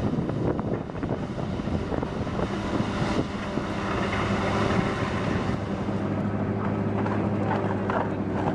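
Wood chipper running under load: a machine drone that settles into a steady engine note about three seconds in, with irregular cracking and crunching as wood goes through.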